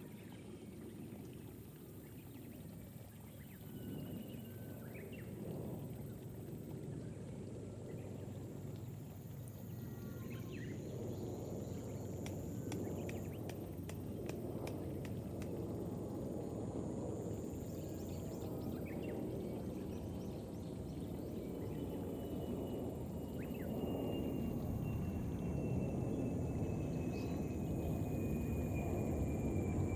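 Outdoor rural ambience: a low rumbling noise that swells steadily louder, with scattered short bird chirps above it. In the second half a thin, faint tone slowly falls in pitch.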